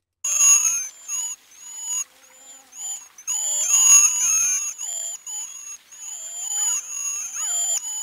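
Recorded cedar waxwings calling: a long run of high, thin, whistled calls, each under half a second, following one another with short gaps and sometimes overlapping.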